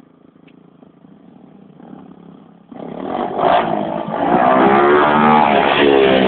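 Motocross bike engine, faint at first, then about three seconds in suddenly loud and revving hard, its pitch rising and falling as the bike accelerates close by.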